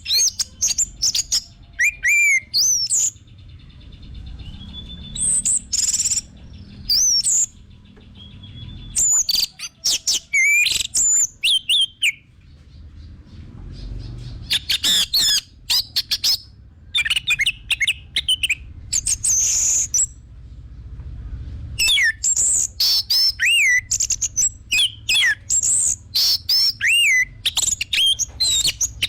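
Orange-headed thrush (anis merah) singing a rich, varied song of quick whistled phrases with rising and falling notes, in bursts broken by short pauses.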